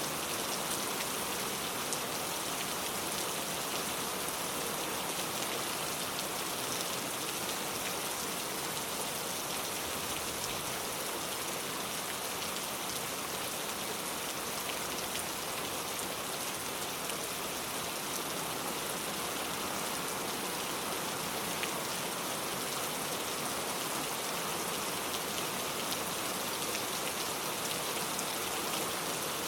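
Steady rain falling, an even hiss of many drops with fine pattering on a surface.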